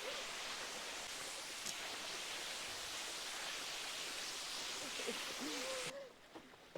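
Steady rushing water of a waterfall, a constant even hiss, with a few brief wavering hoot-like calls near the end. The rushing cuts off abruptly about six seconds in, leaving a much quieter background with a few faint clicks.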